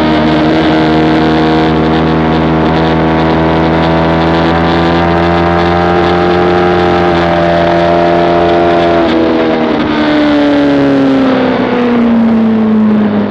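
Motorcycle engine at track speed, recorded onboard, held at high revs for several seconds with the pitch creeping slightly upward. About nine seconds in, the revs start to fall and keep falling steadily to the end, over a constant rushing noise.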